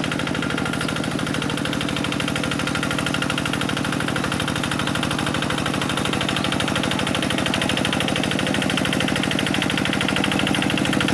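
Quick G1000 two-wheel hand tractor's single-cylinder diesel engine running steadily with a rapid, even chugging, growing slightly louder near the end.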